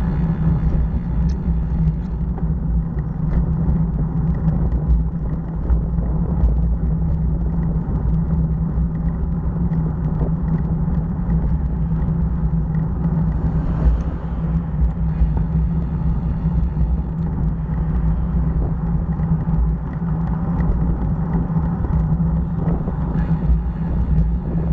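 Motorcycle running steadily while being ridden on the road, a continuous low rumble with no letting up.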